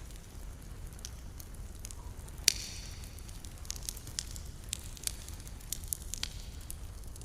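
Wood campfire crackling, with scattered small snaps and one sharp, loud pop about two and a half seconds in, over a low steady rumble.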